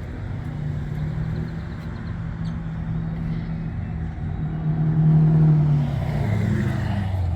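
A car engine running with a steady low hum. It gets louder about five seconds in, then drops in pitch near the end.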